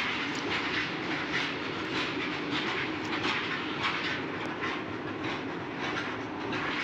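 A train's wagons rolling along the rails, a steady rumble with regular clacks of the wheels over the rail joints as it departs.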